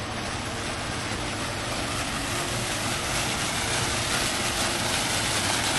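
Steady rushing noise that grows slightly louder toward the end.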